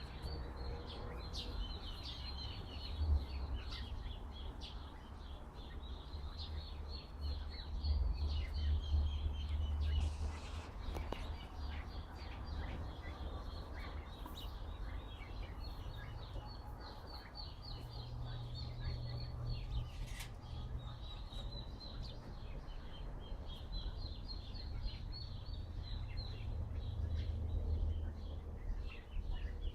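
Small birds chirping and twittering in quick, repeated notes, over a steady low rumble of wind on the microphone.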